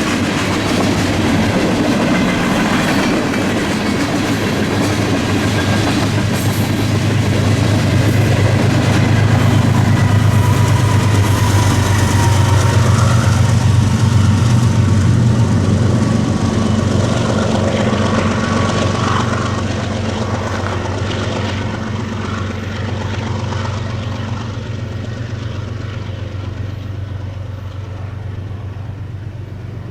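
Freight train passing at speed, its wheels running over the rails, with a locomotive's diesel engine drone building to a peak about halfway through. This is the trailing unit, a Norfolk Southern GE ES40DC, going by; then the train's sound fades steadily away.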